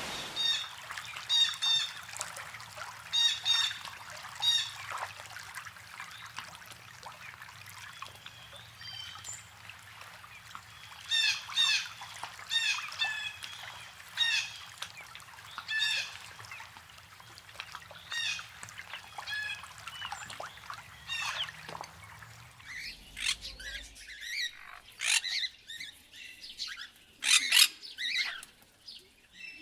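Wild bird calls: short, harsh stacked notes repeated in clusters every second or so, then, after a change of recording about 22 seconds in, a different bird's higher, rapid sweeping calls.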